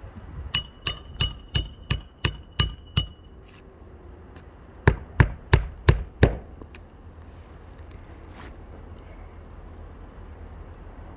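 Hammer blows on a shingle roof, most likely driving nails: a quick run of eight ringing strikes, a short pause, then five louder strikes.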